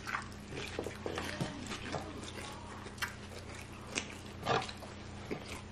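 Close-miked eating sounds: chewing, lip smacks and small mouth clicks, with a louder smack about four and a half seconds in.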